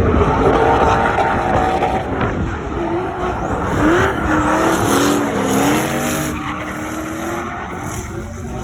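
Drift car engine revving hard while its tyres squeal and skid through a slide. The engine pitch rises about four seconds in, then falls back and holds.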